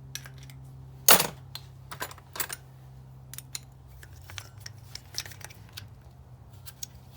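Metal clanks and clicks of hand tools on a motorcycle brake caliper while trying to work its slide pin loose. One loud clank comes about a second in, then a string of lighter knocks and taps, over a steady low hum.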